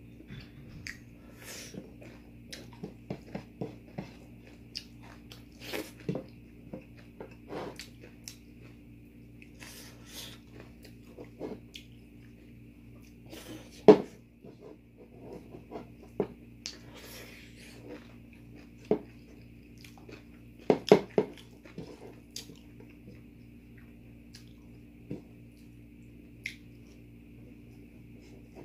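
Close-up eating sounds: chewing and biting with crunches and scattered sharp clicks, a loud one about fourteen seconds in and a quick cluster about twenty-one seconds in, over a steady low hum.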